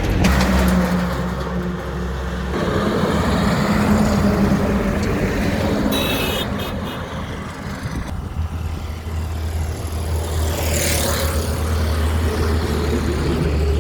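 Highway traffic with heavy truck engines running steadily under tyre and road noise. A brief high-pitched tone comes about six seconds in, and a vehicle rushes past close by about eleven seconds in.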